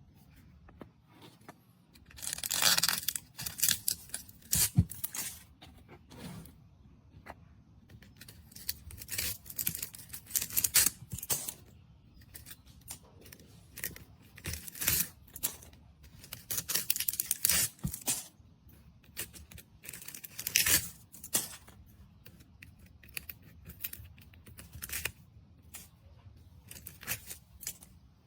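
Irregular bursts of crackling and rustling handling noise, with occasional sharp clicks.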